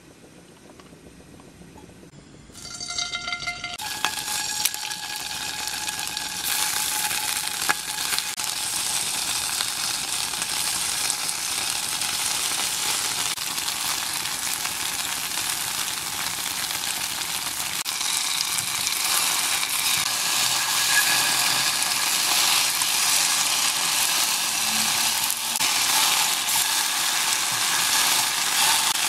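Tofu cubes frying in hot oil in a pan, a sizzle that starts a few seconds in and grows steadily louder as the cubes brown.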